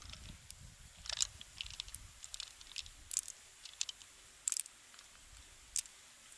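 Scattered sharp clicks and crunches of freshwater mussel shell being handled and pried open, coming irregularly about every half second and thinning out near the end.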